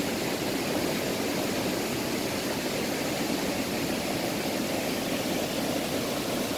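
Steady, even rush of the Niagara River's falling and rapid water.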